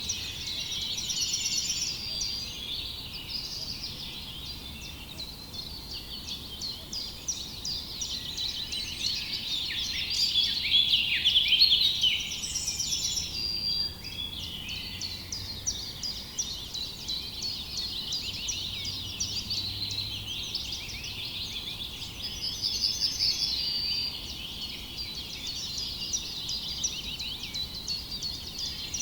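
Many small songbirds chirping and trilling at once in a dense, continuous chorus, busiest and loudest about a third of the way through.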